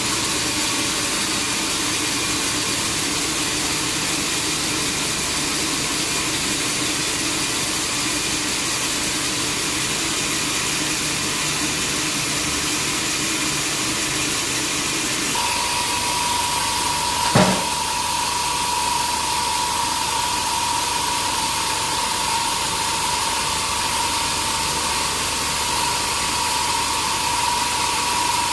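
Sawmill saw running steadily. Just past halfway a steady high whine sets in and holds, and a single sharp knock comes about two seconds later.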